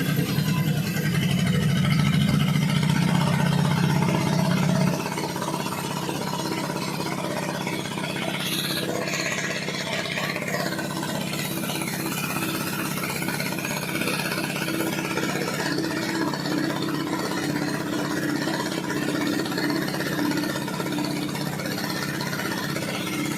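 Steady low mechanical drone of heavy machinery running, louder for the first five seconds and then settling slightly quieter and even.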